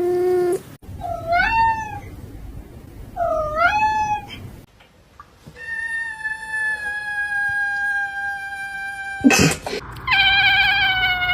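Domestic cat meowing. There is a short meow, then two rising-and-falling meows, then a long drawn-out meow held for about four seconds. A brief thump follows, then another long, wavering meow.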